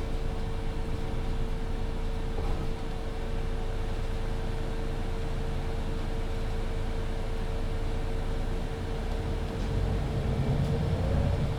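MAN Lion's City 19C EfficientHybrid bus with Voith automatic gearbox, heard from inside: a steady drivetrain hum with a constant mid-pitched whine over a low rumble. The rumble grows louder near the end.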